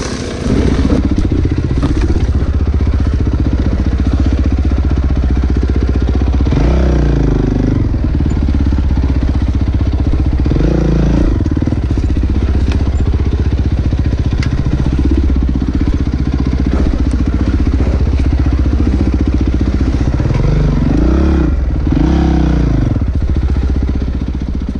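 Dirt bike engine running at low revs along a slow, rough trail, with short revs that rise and fall about seven and eleven seconds in and twice more near the end.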